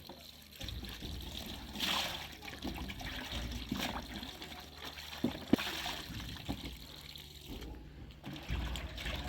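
Water trickling and splashing, with a couple of sharp knocks about five and a half seconds in.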